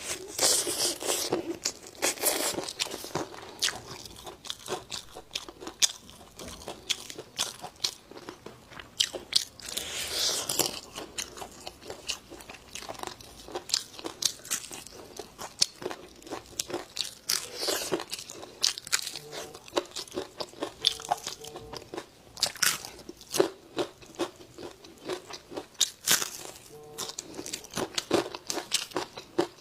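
Close-miked crunching and chewing of crisp fried food, a long run of irregular crackly bites.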